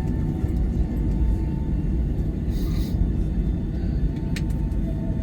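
Steady low rumble of cabin noise inside a Boeing 757-200 on the ground after landing, its engines and air system running. A short hiss comes about two and a half seconds in, and a sharp click a little after four seconds.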